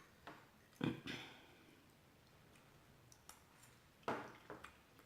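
Quiet eating sounds: two short mouth noises while chewing, about a second in and again near the end.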